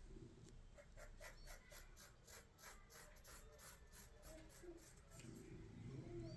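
Faint rhythmic scratching, about four short strokes a second, stopping near the end.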